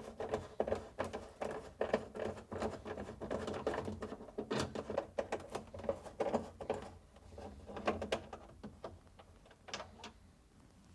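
A 1/4-inch nut driver backing out screws in a refrigerator's plastic water filter compartment: a fast run of small clicks and scrapes, breaking briefly about seven seconds in and falling nearly quiet near the end.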